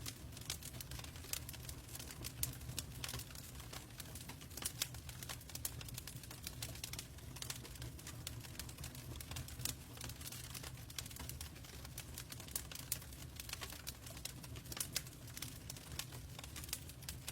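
Log fire crackling in a fireplace: irregular sharp pops and snaps over a low steady rumble.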